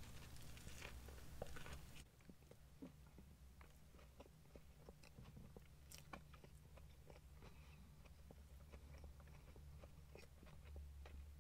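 Near silence with faint chewing of a crispy chicken burger: a bite in the first couple of seconds, then scattered soft mouth clicks and crunches over a low steady hum.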